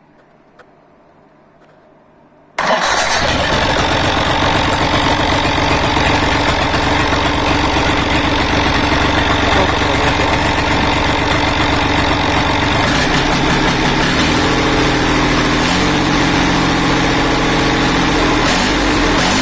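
Freshly overhauled D115 four-cylinder diesel engine from a Universal 445 tractor catching suddenly about two and a half seconds in, then running steadily. Its note shifts a little past the middle.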